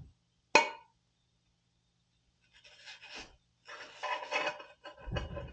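A single sharp click about half a second in, then a few seconds of irregular scraping and rubbing as tools and furnace parts are handled, with a couple of dull knocks near the end.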